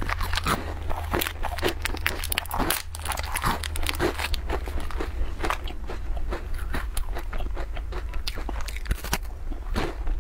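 Close-miked biting and chewing of a crunchy snack, many sharp crunches in quick succession, over a steady low hum.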